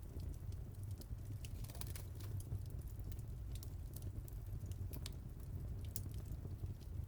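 Wood fire in a fireplace crackling: scattered irregular sharp pops and snaps over a steady low rumble of the flames.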